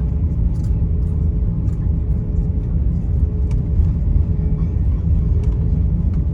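Cabin noise inside an Airbus A350-900 taxiing before takeoff: a steady low rumble from its Rolls-Royce Trent XWB engines at low power and the rolling airframe, with a steady hum and a few faint rattling clicks.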